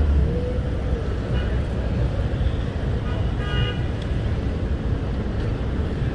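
Traffic noise and low wind rumble on the microphone while riding an e-bike along city streets, with a short high-pitched tone about three and a half seconds in.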